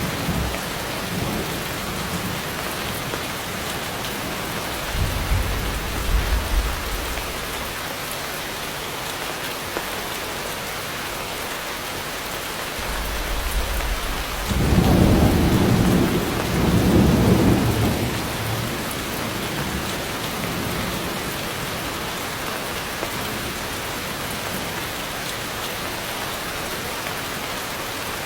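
Heavy rain falling steadily with thunder: a low rumble about five seconds in, then a louder, longer roll of thunder around the middle.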